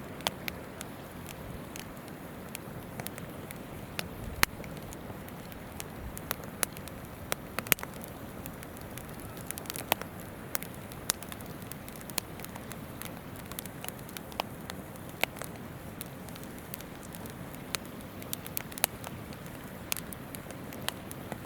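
Wood campfire crackling, with sharp pops at irregular intervals, over the steady rush of a flowing river.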